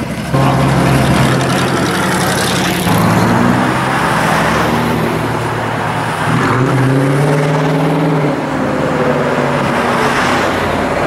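Classic and muscle car engines running as the cars drive past one after another. The exhaust note holds steady, then changes pitch several times as a different car comes through.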